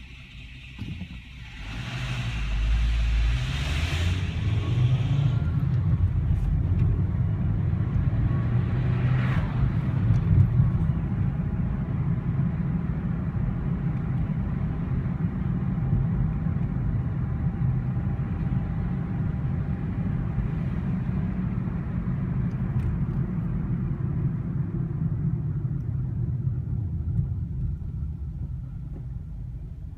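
2007 VW Rabbit's engine starting about two seconds in, then running at idle with a steady low rumble: the strange noise that comes on at a standstill or at start-up and goes away above 3,000 rpm in first gear. The rumble fades near the end.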